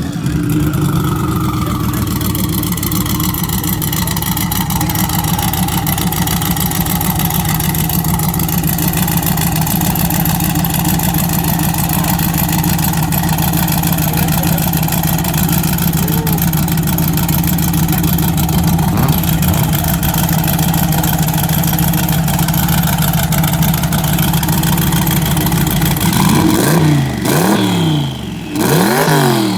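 Twin-turbo Jeep Trackhawk V8 running hard at a steady, loud level. Near the end it settles into a few quick revs, the pitch rising and falling each time.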